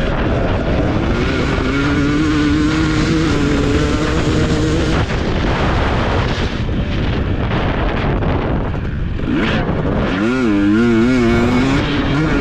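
TC250 motocross bike engine running hard under a constant rushing noise. Its pitch climbs in the first couple of seconds and holds, drops away about halfway through, then warbles quickly up and down about ten seconds in as the throttle is worked, before settling steady.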